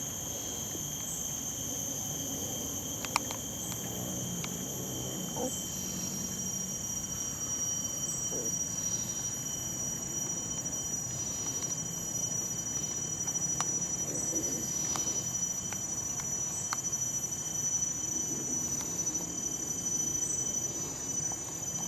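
Steady chorus of insects in several high-pitched continuous tones layered together, with a few faint clicks.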